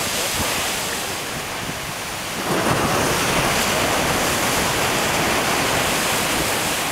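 Ocean surf and wind rushing against the microphone, swelling to a louder rush about two and a half seconds in.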